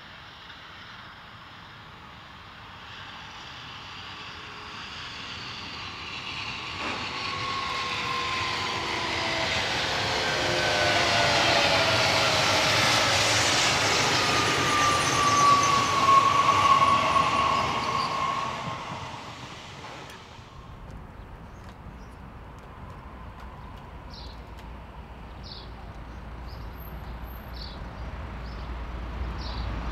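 A train passing by: its noise builds for about ten seconds, with tones sliding down in pitch as it goes past, then falls away sharply about two-thirds of the way in, leaving a lower steady rumble.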